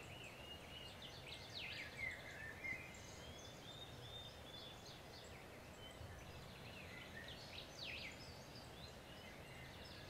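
Birds chirping faintly, many short calls and quick downward-sweeping notes scattered throughout, over a steady low background hiss.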